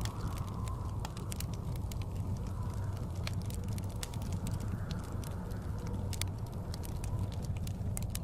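Wood fire in a fireplace crackling, with many irregular sharp pops and snaps, over a steady low rumble of blizzard wind.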